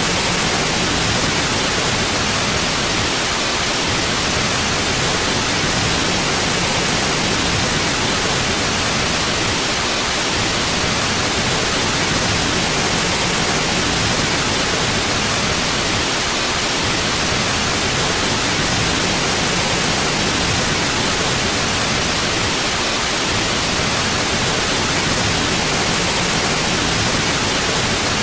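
Steady white noise: an even, unchanging hiss across the whole range, made as a sleep and relaxation aid.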